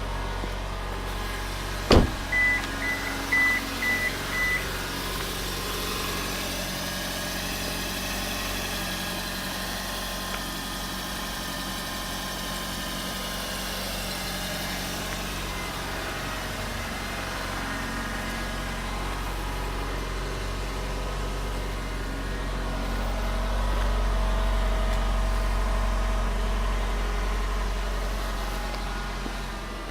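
Suzuki Swift Sport ZC32S's 1.6-litre four-cylinder engine idling steadily. A sharp click about two seconds in is followed by a short run of high beeps, and the idle grows slightly louder for a few seconds past the twenty-second mark before settling.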